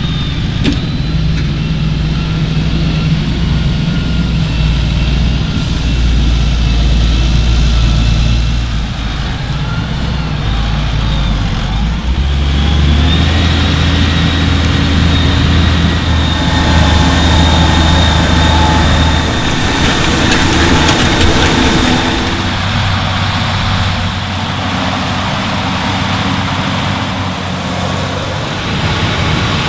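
Large diesel engines of farm machinery running steadily, with the engine sound changing abruptly twice, about twelve and twenty-two seconds in, as one machine gives way to another.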